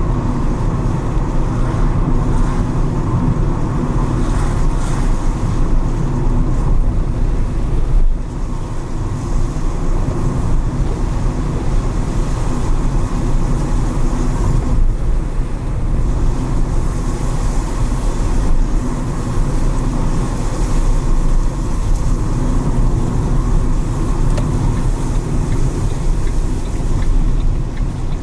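Car driving: steady engine rumble and tyre noise, with a hiss from tyres on a wet road; the sound eases briefly twice.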